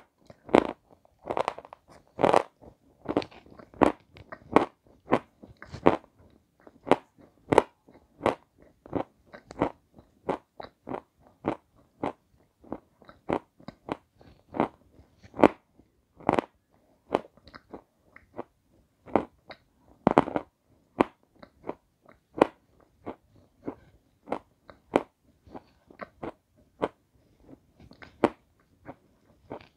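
A person biting and chewing crunchy white edible chalk, close to the microphone: a steady run of sharp, dry crunches, about one or two a second.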